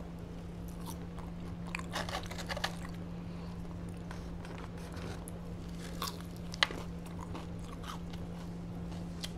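Close-up chewing and crunching of fried chicken tenders and fries, with a few scattered sharp clicks, the sharpest about two-thirds of the way through, over a steady low hum.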